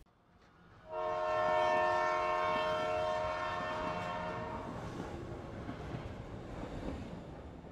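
Passing train with its horn: one long horn blast starts about a second in and lasts nearly four seconds, over the train's rumble, which slowly fades away.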